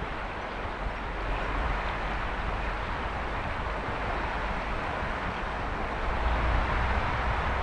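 A mountain river flowing: a steady, even rush of water with a low rumble beneath it.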